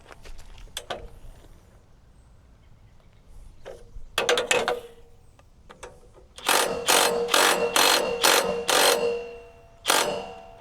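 Socket ratchet wrench clicking in short strokes as bolts on a steel sawmill track are snugged up: a few strokes, then a quick run of about eight, each with a faint metallic ring.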